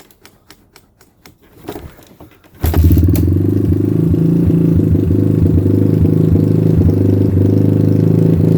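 Suzuki LT230S quad's single-cylinder four-stroke engine on a cold start: a few faint clicks, then about two and a half seconds in the engine suddenly catches and keeps running steadily.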